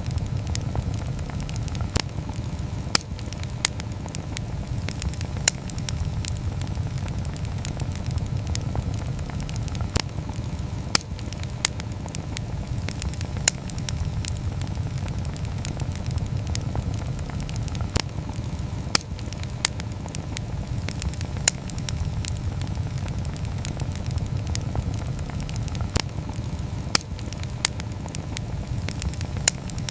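Wood campfire burning, with a steady low rush of flame and frequent sharp, irregular crackles and pops.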